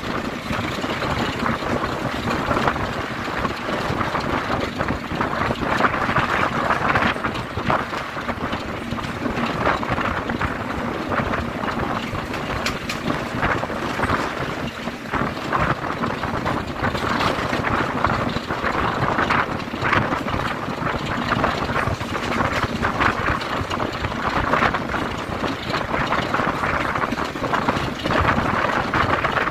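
A train hauled by a Class 33 diesel locomotive running along the line: a steady rumble of wheels on the rails with scattered irregular clicks.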